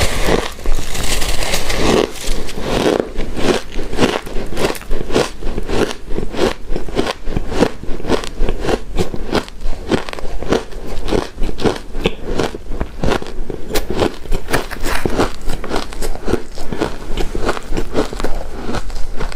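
Close-miked chewing of a shaved-ice and snow-ice dessert: a rapid run of icy crunches and crackles, several a second.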